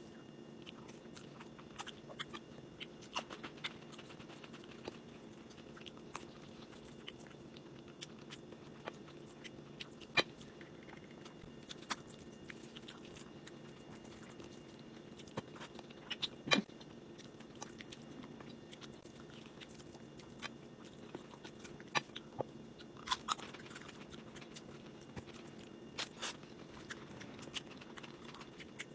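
Quiet close-miked chewing of food: soft wet mouth sounds with scattered small crunches and clicks, over a steady low hum.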